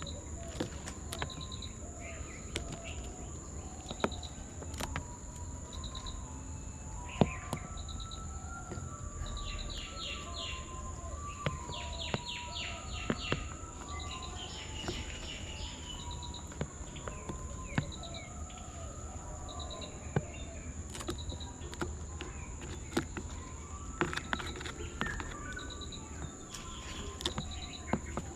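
Small birds chirping and twittering in quick runs of notes, over a steady high insect whine and a short insect chirp repeating about once a second. Scattered sharp clicks run through it.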